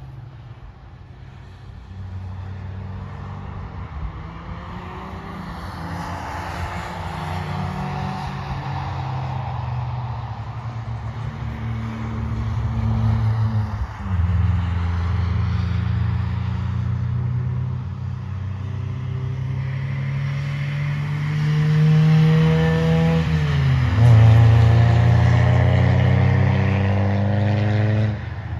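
Car engines on a race circuit accelerating hard, their pitch rising through each gear and dropping at upshifts about 14 and 24 seconds in. The sound builds steadily and is loudest near the end as a car draws close.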